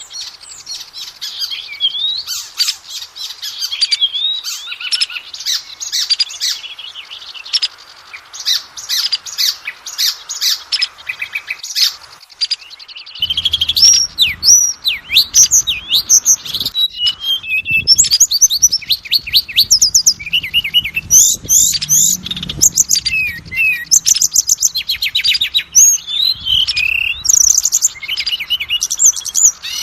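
Oriental magpie-robin (kacer) singing a loud, continuous, varied song of slurred whistles and rapid trills. It is a lure recording of the kind played to provoke a kept magpie-robin into singing. A faint low rumble sits beneath the song from about halfway.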